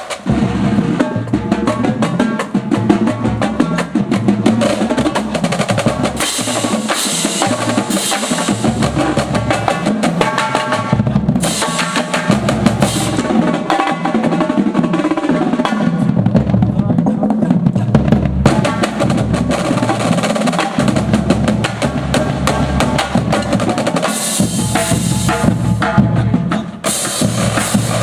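Drum corps music, loud and continuous, with snare drum rolls and bass drum hits driving it.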